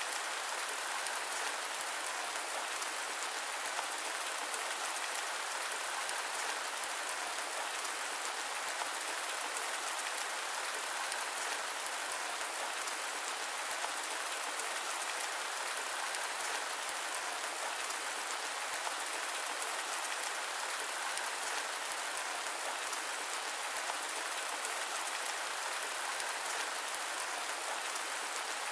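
Steady rain falling on a surface, a dense even patter with a hiss-like, white-noise character.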